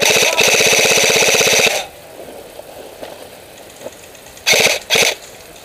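Airsoft electric gun firing full-auto close by: one long burst of about two seconds made of rapid even clicks, then two short bursts near the end.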